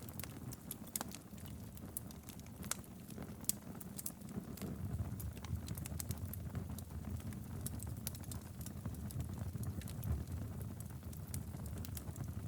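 Wood fire burning steadily in a fireplace: a low, even rumble of flames with frequent sharp, irregular crackles and pops.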